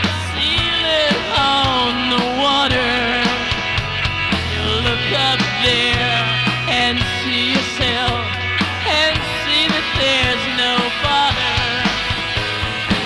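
Live rock band playing an instrumental break: an electric lead guitar plays a line full of bends and vibrato over sustained bass notes and drums.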